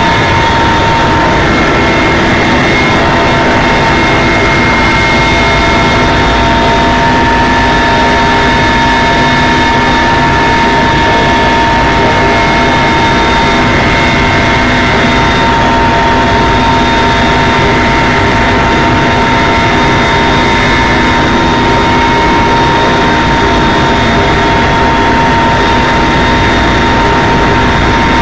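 Helicopter in flight: loud, steady turbine engine and rotor noise with a constant whine that holds one pitch throughout.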